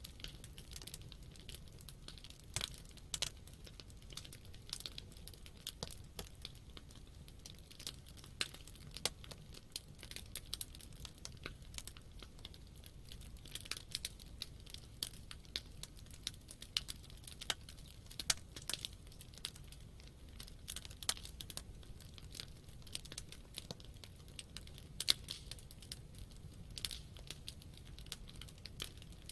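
Wood campfire burning, with constant irregular crackling and sharp pops over a steady low rumble.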